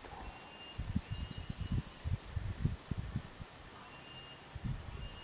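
Rapid high trills of small-bird chirps, several in turn, with short thin whistled notes between them: sunbird-type calls used to lure a Kolibri Wulung. Irregular low thumps and rumbling run beneath, loudest in the middle.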